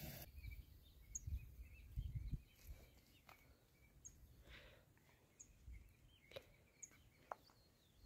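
Near silence with four short, high bird chirps spread a second or more apart, scattered faint clicks, and a few dull low thumps in the first couple of seconds.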